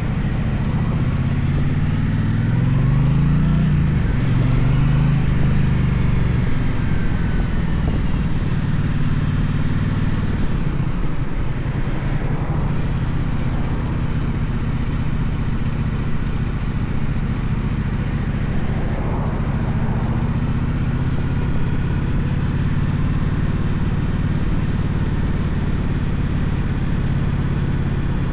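Gaokin GK1200 motorcycle engine running under way. The revs rise and fall in the first several seconds, then hold a steady pitch.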